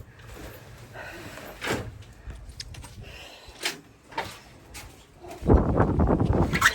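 A few light knocks, then near the end a greenhouse's sliding door is rolled along its track with a loud rattling rumble.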